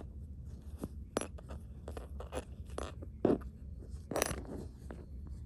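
Close-up handling noise from hand-finishing yarn work: scattered light clicks, ticks and scrapes, a few sharper ones among them, over a low steady hum.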